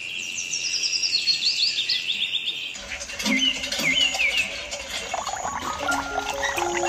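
Birds chirping in quick, repeated high notes over a steady high tone. About three seconds in, the sound cuts to a different mix of bird chirps, and near the end a simple melody of held notes begins.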